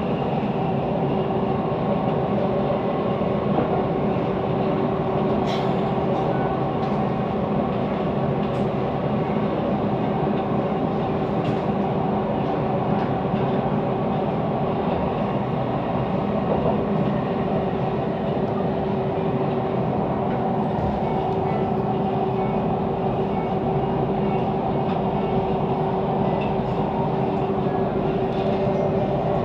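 Siemens Inspiro metro car running steadily between stations, heard from inside the carriage: continuous rolling wheel noise with a steady hum of several tones and a few faint clicks. The uploader calls the car's rolling noise weird.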